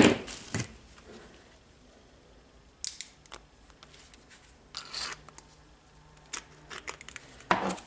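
Pliers clicking and clinking against the metal spring ring and tool holder of a Makita DHR202 rotary hammer while the ring is prised out: scattered sharp metal ticks a second or two apart, bunching together near the end.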